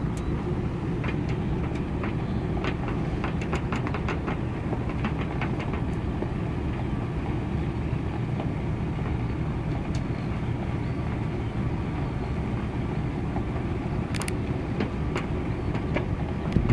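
Steady low rumble of a vehicle travelling on the road, with scattered light rattles and clicks through it.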